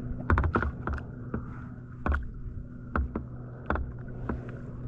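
About a dozen irregular light clicks and knocks, spaced a quarter-second to a second apart, over a steady low hum.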